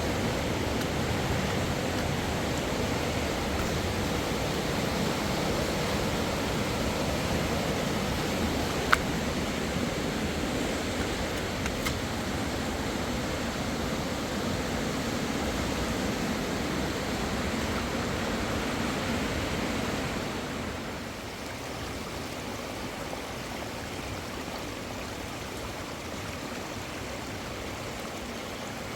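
Steady rush of a fast-flowing river, a little quieter from about twenty seconds in, with a single sharp click about nine seconds in.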